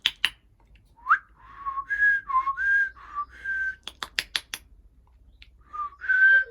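A two-note whistled call, a lower note then a higher one, repeated several times in a row and again near the end. Quick sharp clicks come in short runs at the start and around four seconds in.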